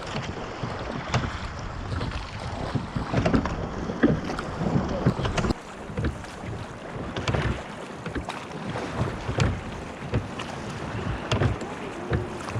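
Wooden Cornish pilot gig being rowed at sea: wind buffets the microphone over the rush of water, with irregular knocks about once a second from the oars working in their pins.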